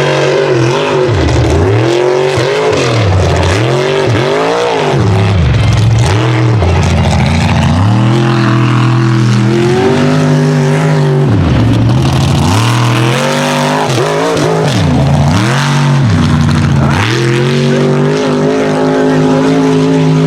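Mega truck engine revving hard, rising and falling sharply several times in the first few seconds, then held at high revs with two brief drops under full throttle.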